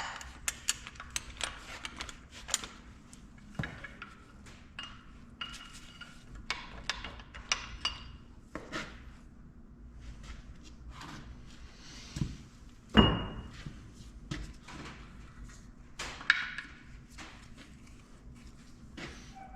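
Metal tools and engine parts clinking and knocking: many light metallic clicks and taps, with one louder clank about 13 seconds in that rings briefly.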